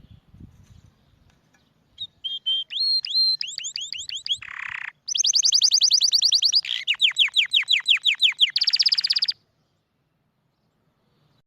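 Domestic canary singing one song phrase: runs of rapid repeated notes, each run at a new pitch, ending in a fast buzzy roll. The song starts about two seconds in and stops well before the end.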